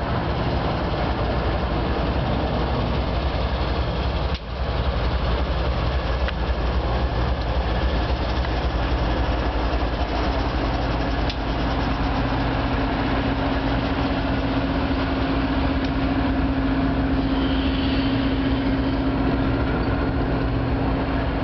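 Diesel-hauled passenger train passing: the locomotive's engine running as it goes by, then the passenger cars rolling past on the rails with a steady rumble. A steady hum joins about nine seconds in and holds until near the end.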